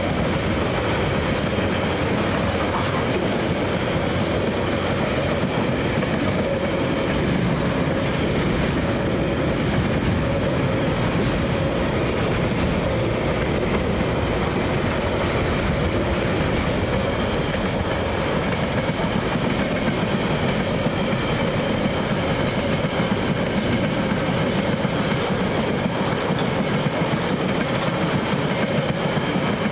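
TasRail freight train's container wagons rolling past close by: a steady, continuous run of steel wheels on the rails.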